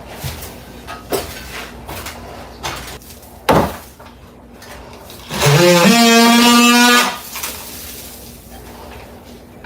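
A few knocks and clatters, the loudest about three and a half seconds in, then a small electric power tool's motor spins up with a quickly rising pitch, runs steadily for about a second and a half and stops.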